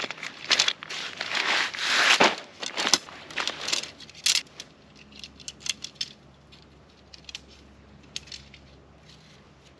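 Close handling noise: a busy run of rustling and crinkling for about four seconds, then a few scattered small clicks.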